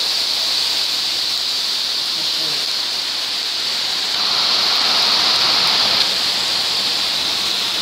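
Heavy rain pouring onto a street, a steady hiss. Between about four and six seconds in, a car's tyres swish through the wet road and the sound swells briefly.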